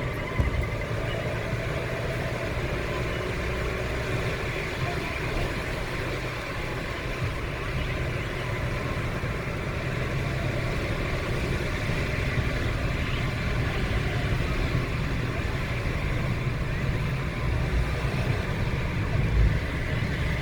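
Steady road and engine noise heard from inside a moving car: a continuous low rumble under a haze of tyre and road noise, with a short thump about half a second in and another near the end.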